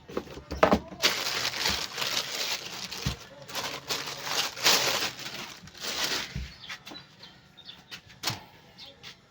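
Packaging rustling and crinkling in uneven bursts for several seconds as the mixer is unwrapped from its box, with a few sharp knocks.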